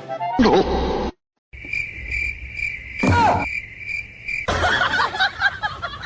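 Steady high-pitched insect-like chirping, with a short falling squeak about three seconds in; it cuts off and gives way to chattering, voice-like sounds.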